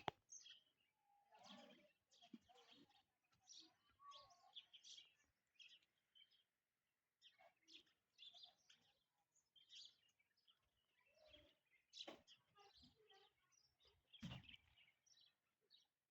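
Faint, scattered bird chirps and calls, short and irregular, over quiet outdoor background noise.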